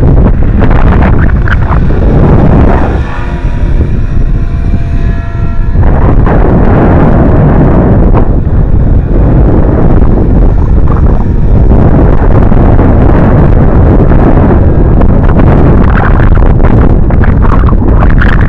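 Strong wind buffeting the microphone. It eases for about three seconds, a few seconds in, and a steady pitched whine from the 500-size electric RC helicopter comes through.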